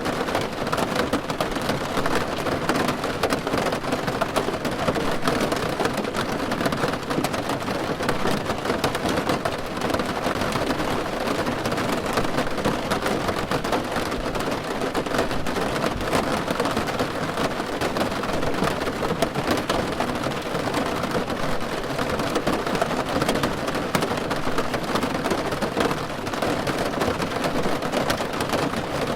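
Steady rain falling on a car's roof: a dense, even patter of drops.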